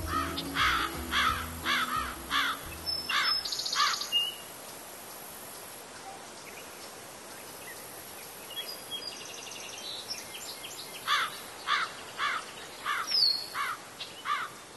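Bird calls: a run of sharp repeated notes, about two a second, for the first four seconds and again about eleven seconds in, over a steady outdoor hiss.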